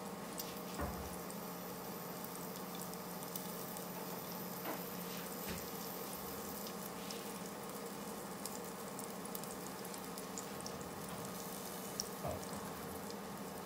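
Gilafi kebabs sizzling in a pan: a steady fizz with scattered small crackles and pops, over a steady low hum. A few soft knocks, about a second in, midway and near the end.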